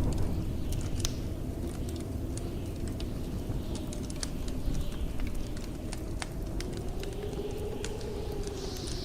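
Wood fire crackling with scattered sharp pops, over the low rumble of blizzard wind that howls in a wavering tone, swelling briefly near the end.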